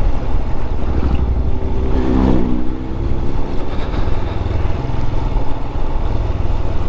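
Royal Enfield 411 single-cylinder motorcycle engine running steadily at road speed, with wind noise. About two seconds in, a brief rising-then-falling engine sound passes by as oncoming motorbikes go past.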